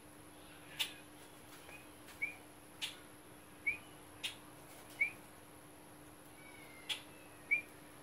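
Bird calls: short rising whistled chirps about a second apart, mixed with several sharp clicks, over a faint steady hum.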